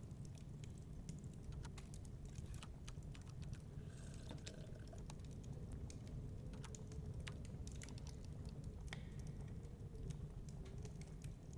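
Wood fire crackling in a fireplace: quick, irregular pops and snaps over a low steady rumble.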